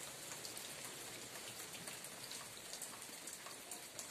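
Steady light rain falling on a dirt yard: a soft, even hiss with many faint ticks of single drops.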